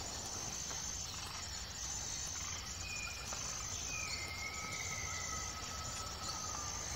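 Outdoor ambience of insects singing in repeated high, steady phrases, with a few thin whistles, some sliding in pitch, about halfway through.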